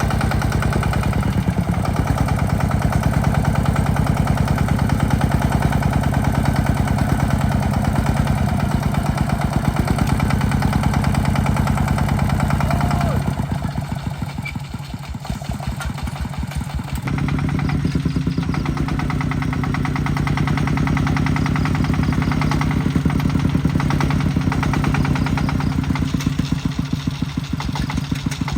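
Tractor engine running steadily under load. About 13 seconds in it drops to a slow idle, its separate firing strokes audible, then picks up speed again about four seconds later.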